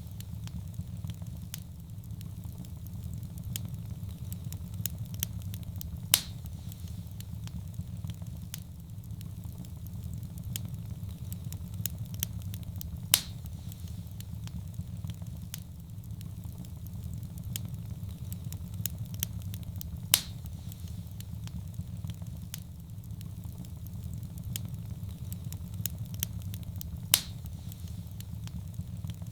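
Fire burning in a fireplace: a steady low rumble of flames under a constant scatter of small crackles, with a sharper, louder pop about every seven seconds.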